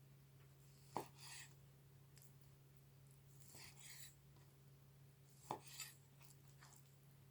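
A German chef's knife cutting meat on a cutting board, faint: two sharp taps of the blade on the board, about a second in and again about four and a half seconds later, with brief scraping slicing sounds between. A low electrical hum runs underneath.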